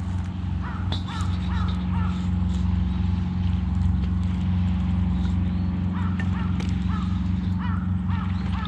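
Crows cawing in two runs of short calls, about four near the start and several more near the end, over a steady low hum.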